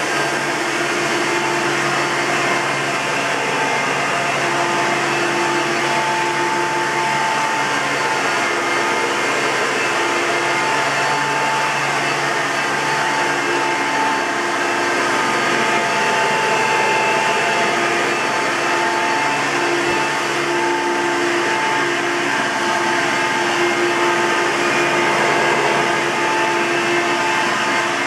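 1999 Hoover Soft & Light Elite upright vacuum cleaner running steadily, with whining tones that fade in and out over the motor noise. This is the siren-like sound of a worn bearing, which the owner judges needs replacing even after fresh grease.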